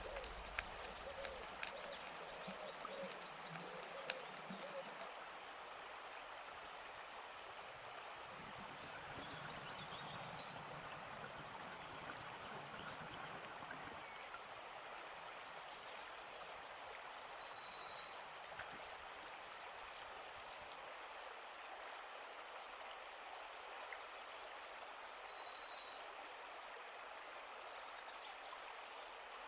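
Outdoor nature ambience: a steady, even hiss of background noise with small birds giving short, high-pitched chirping trills in a few bursts, the loudest about halfway through.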